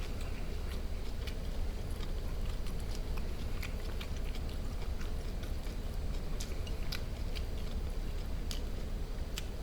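A person chewing food close to the microphone, with many small irregular wet mouth clicks over a low steady hum.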